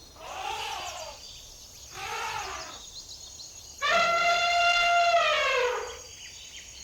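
Elephant trumpeting: two short calls that rise and fall in pitch, then a louder, longer blast that drops in pitch at its end.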